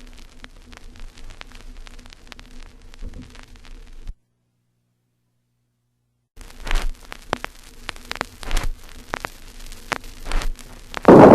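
Vinyl record surface noise: crackle and scattered pops over a faint low hum. It drops to dead silence for about two seconds near the middle, then comes back louder with more pops. Right at the end a loud, rushing sound starts suddenly.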